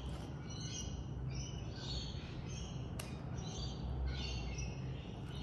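Faint bird chirps repeating over a low steady hum, with one light click about three seconds in.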